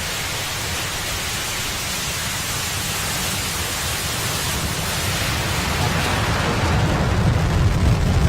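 Falcon 9 first stage's nine Merlin engines at liftoff: a steady rushing noise that grows louder, with a deep crackling rumble building over the last couple of seconds.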